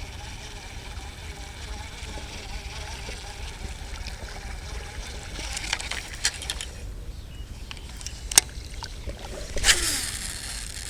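Strong wind buffeting the microphone with a steady low rumble. In the second half come a few sharp clicks and a louder brief rustling burst near the end.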